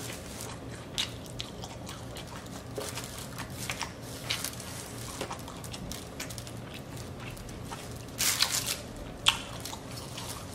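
Close-up sounds of someone eating takeout Chinese food: irregular wet chewing and crunching clicks. A louder scraping burst about eight seconds in, then a sharp click about a second later.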